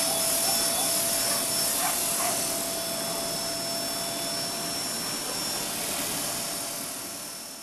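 E-Sky King RC helicopter running steadily, its rotor and motor making a whirring rush with a steady whine. The sound fades out near the end.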